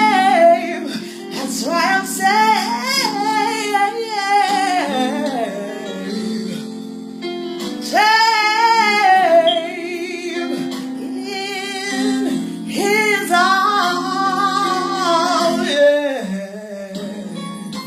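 A woman sings a gospel song with wavering, gliding vocal runs over steady instrumental backing. Her phrases break off twice for a couple of seconds, and the voice fades near the end.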